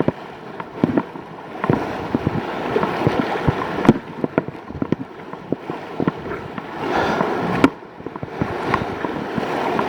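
Whitewater rapids rushing around a kayak, with frequent sharp splashes and knocks as the water hits the boat.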